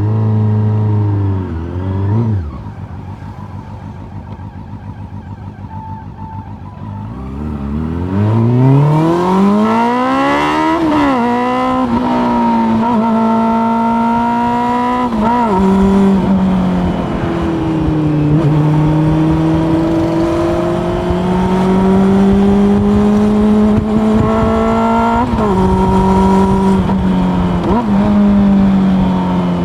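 Honda CB400 Super Four's inline-four engine idling, with a short blip of the throttle about two seconds in. About seven seconds in it pulls away, the revs climbing and then dropping at each upshift through the gears, and settles into a steady pull at moderate revs.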